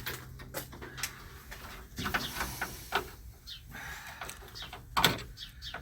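Scattered clicks, clanks and knocks of hand tools and car parts being handled while parts are taken off to get at the radiator, with the loudest knock about five seconds in.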